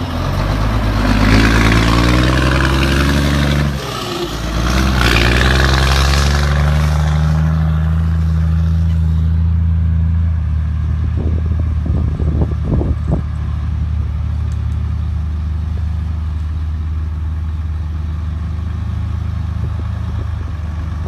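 Scania truck's diesel engine with a straight-through exhaust and no muffler, revved up twice in the first several seconds, then settling to a steady idle. A few short knocks come partway through the idle.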